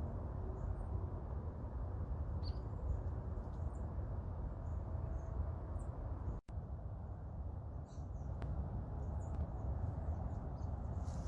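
Faint, short bird chirps scattered over a steady low outdoor rumble, with a sudden brief drop-out of all sound a little past halfway.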